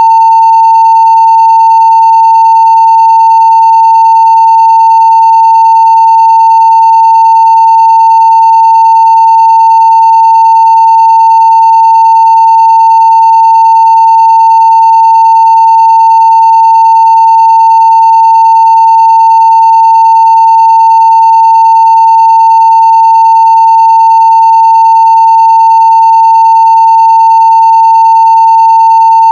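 Steady 900 Hz sine-wave test tone at full level (0 dB), held unchanging without a break.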